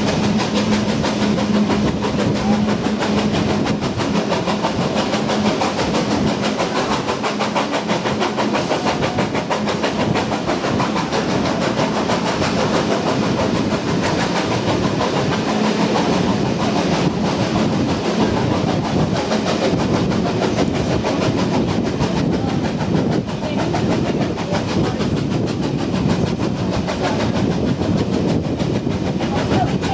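Heritage train running along the line: a steady, loud rumble and clatter of wheels on the track, with a low steady hum for much of the time.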